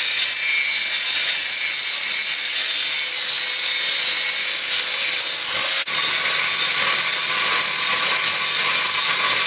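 Angle grinder with a grinding wheel running against a 5160 spring-steel blade, a loud steady high whine and hiss of metal being ground down. It cuts out for an instant about six seconds in.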